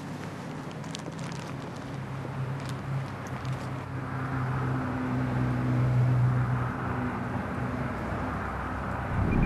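A car engine running with a steady low hum, growing louder over the first six seconds and then easing slightly.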